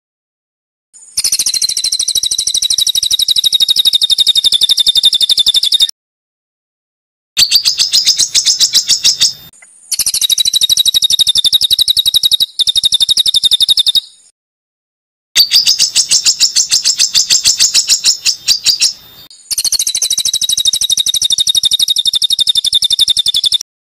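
Recorded songbird giving a harsh, rapid-fire call of fast repeated high notes, the 'tembakan kasar' type of phrase used as masteran to tutor competition birds. It comes in five bursts of a few seconds each, separated by abrupt silent gaps.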